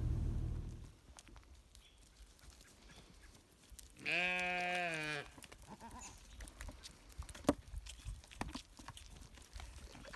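A goat bleats once, a single call about a second long, roughly four seconds in. Before it, a low rumble fades out within the first second, and faint scattered clicks follow the call.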